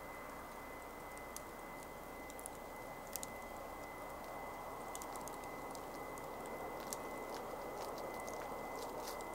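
Wood campfire burning: a steady hiss of flame with scattered sharp crackles and pops of burning wood, a few about three seconds in and more in the second half.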